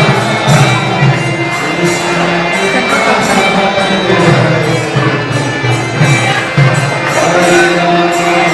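Devotional kirtan music: hand cymbals and a drum keep a steady beat, about two strokes a second, under sustained held tones.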